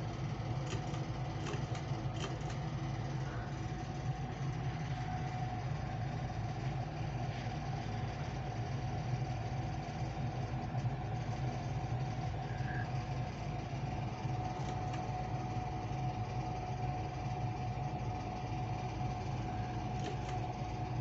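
Ceiling fan motor running: a steady low hum with a faint steady whine over it, and a few light clicks in the first couple of seconds.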